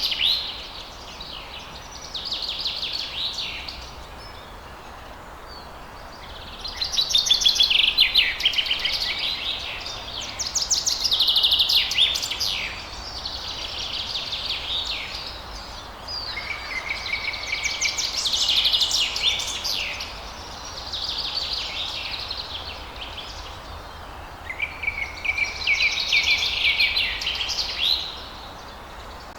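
Songbirds singing: repeated phrases of quick trills and chirps, each a second to a few seconds long, coming every couple of seconds over a steady background hiss.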